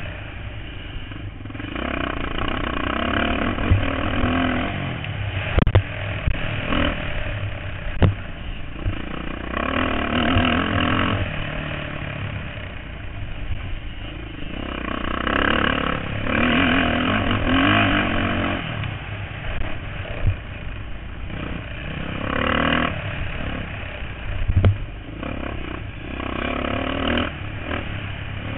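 Motocross bikes racing, their engines revving up hard and dropping off again every couple of seconds as the riders accelerate and back off, with a few sharp knocks.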